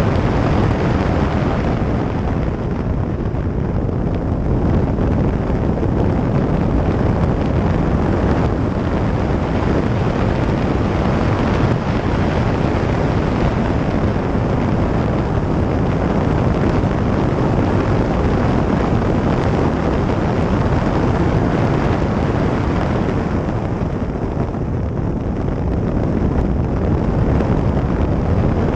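Ferrari running at speed on a race track, heard through an onboard camera microphone: steady engine noise mixed with heavy wind buffeting on the microphone.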